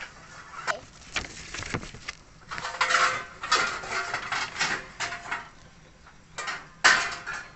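Metal cookware clattering: a pot, its lid and utensils knocking together in a series of irregular strikes, some ringing briefly, with the loudest knock near the end.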